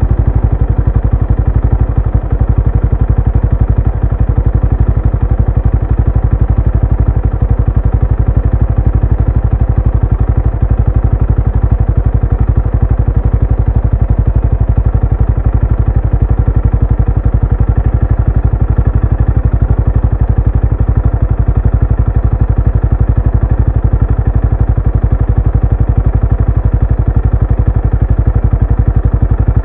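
Benelli Imperiale 400's single-cylinder engine and exhaust running at a steady engine speed, with an even, rapid beat of firing pulses.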